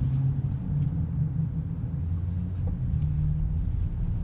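Steady low road rumble and tyre noise in the cabin of a moving Tesla Model 3 Performance; as an electric car it has no engine note, only the rumble of the road.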